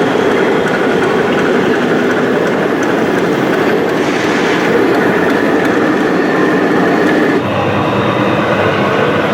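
Electric motors and gear drives of radio-controlled model construction vehicles running steadily, with a mechanical whine; the sound changes abruptly about seven and a half seconds in.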